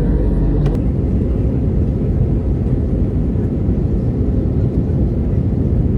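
Jet airliner cabin noise: a steady, deep rumble of engines and airflow.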